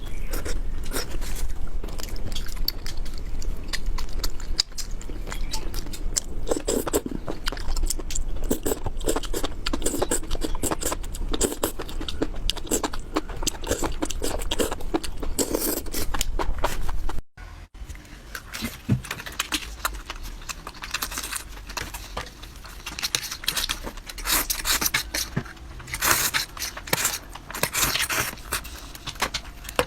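Close-miked eating sounds of seafood and Korean instant noodles: wet chewing and biting with dense crunchy, clicking mouth noises. It cuts off abruptly about 17 seconds in and carries on more quietly after that.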